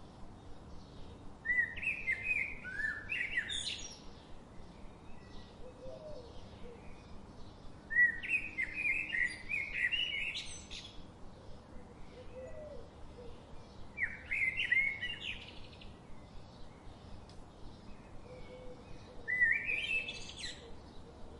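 A songbird singing four short warbled phrases about six seconds apart, each ending with a rising sweep, over faint chirps from other birds.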